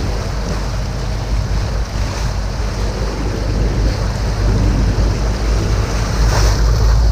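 Canal tour boat's motor running with a steady low rumble, with wind buffeting the microphone and water rushing along the hull.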